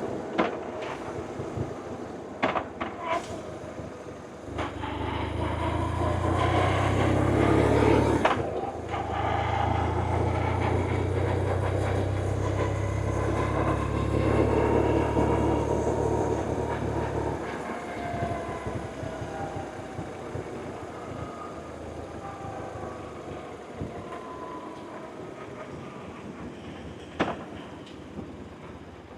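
BMW R1100RT's air/oil-cooled boxer twin running on the road, with road noise. It swells louder about four seconds in, dips briefly near eight seconds as if for a gear change, pulls on, and eases off around seventeen seconds.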